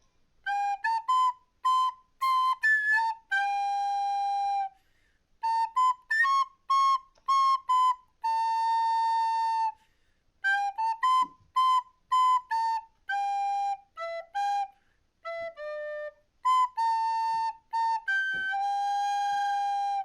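Background music: a solo flute-like melody in short phrases of quick notes and longer held notes, with brief silences between phrases and no accompaniment.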